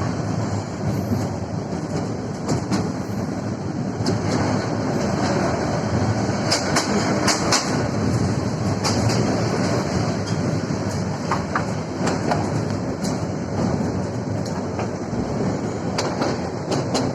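Train running on the rails: a steady rumble with scattered sharp clicks and rattles.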